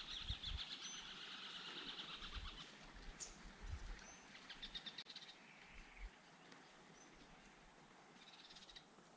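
Faint birdsong: rapid trilling calls and a few short high chirps, with a few soft low thuds. It fades out near the end.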